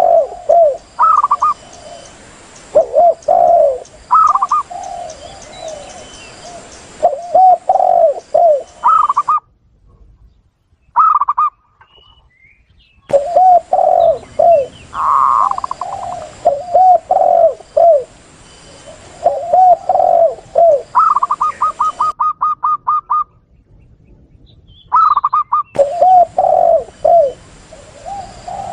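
Spotted dove cooing in repeated low phrases, mixed with higher-pitched zebra dove calls, including a quick run of short notes about three quarters of the way through. The recording drops out abruptly twice.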